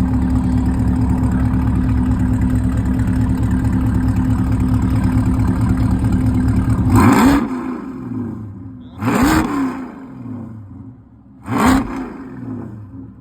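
Car engine running loud and steady, then revved in three quick blips about two seconds apart, settling back to a quieter idle between them.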